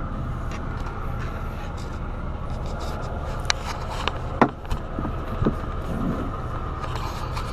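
Diesel pickup truck engine idling steadily, with a few short sharp clicks in the middle.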